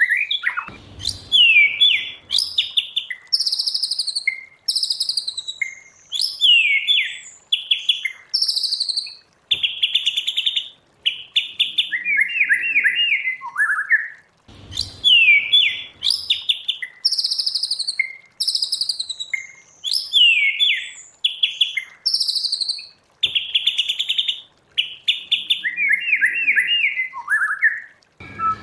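White-rumped shama singing a run of loud, varied whistled phrases, many of them quick falling notes and rapid trills, with short pauses between. About halfway through, the same sequence of phrases starts over.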